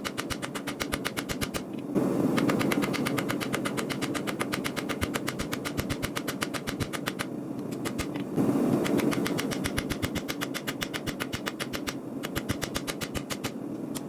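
Mechanical power hammer striking hot steel in rapid, even blows, several a second, while a Bowie knife blade is forged. A steady rumble runs underneath and gets suddenly louder about two seconds in and again past eight seconds.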